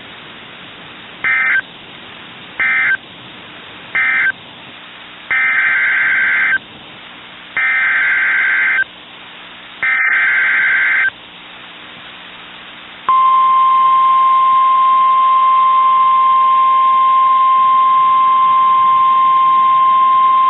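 NOAA Weather Radio alert signal. Six bursts of warbling digital data (the SAME alert header) come first, three short and then three longer, followed about 13 seconds in by the steady 1050 Hz warning alarm tone, which is loud and holds unbroken.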